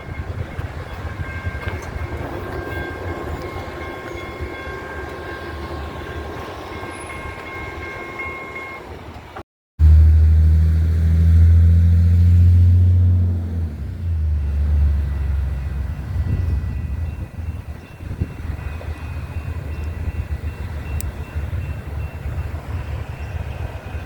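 Train passing: a steady rumble with faint steady high tones held over it. Just under halfway through it cuts off abruptly and is replaced by a much louder low locomotive engine drone lasting about four seconds, which eases back into a rumble with faint tones again.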